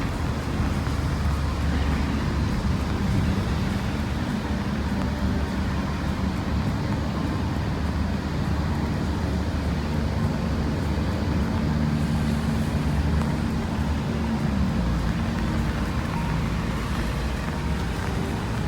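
Steady low rumble of passing road traffic, with a vehicle engine's drone a little stronger about halfway through.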